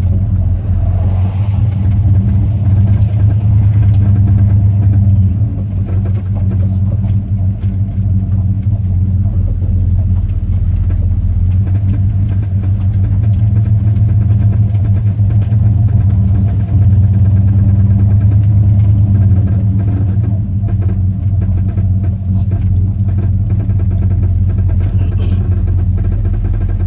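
1968 Cadillac hearse's V8 engine running as the car is driven and turned, with a repeated clicking/tapping over the engine sound. The owner cannot place it: it seems worse when steering, and he wonders whether it is steering related or engine mount related.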